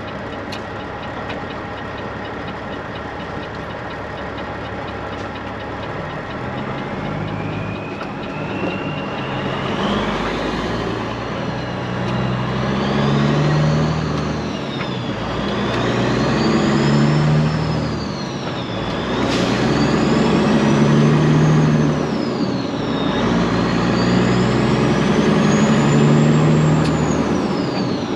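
Straight-piped Peterbilt 389 diesel semi engine running steadily, then pulling away under load and climbing through the gears. Its pitch and a high turbo whistle rise and drop back again at each shift, several times, getting louder.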